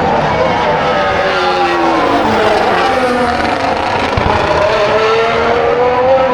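Formula 1 cars' turbocharged V6 engines passing at speed, several engine notes sliding down and up in pitch as the cars go by and shift.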